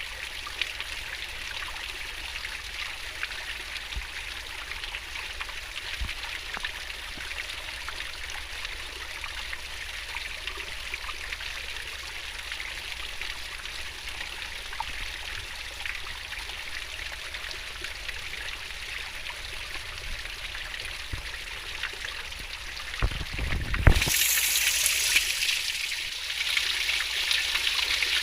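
Fast-flowing stream water babbling and splashing steadily. About 23 seconds in come a few low knocks, and then the rushing becomes suddenly louder and brighter.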